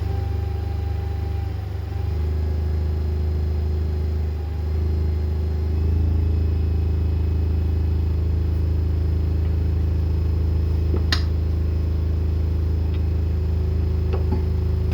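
Wood lathe running with a steady motor hum, stepping slightly louder a couple of times, with one sharp click late on.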